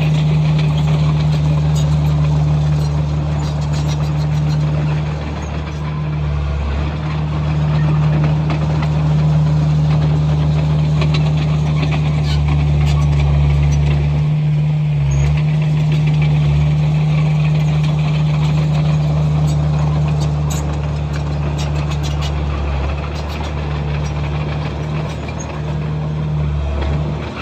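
Komatsu bulldozer's diesel engine running steadily at working revs, with frequent short clicks and rattles over it. The engine sound eases briefly a few times.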